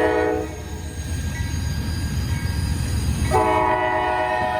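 Norfolk Southern freight locomotive's multi-tone air horn sounding a chord twice: a blast that ends about half a second in, then a longer blast starting near the three-second mark. A steady low rumble of the passing train runs underneath.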